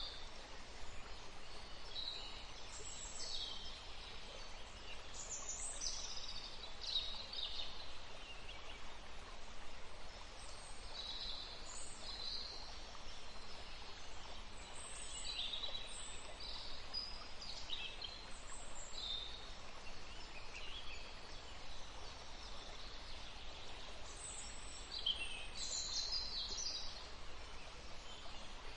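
Forest ambience: several small birds chirping and singing in short, scattered calls over a steady background hiss.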